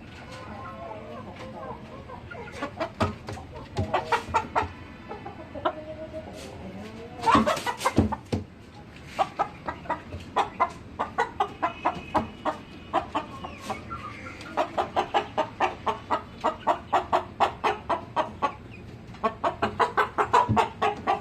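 Chickens clucking in long runs of short, rapid calls, several a second, with a louder burst of calls about seven seconds in.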